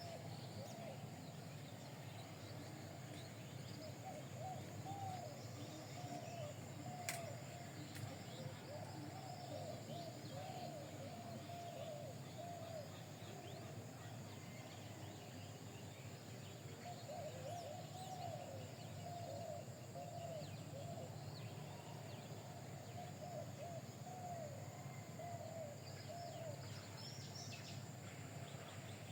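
Birds calling in runs of short chirps that rise and fall, with fainter, higher chirps among them, over a steady low hum. There is a single sharp click about seven seconds in.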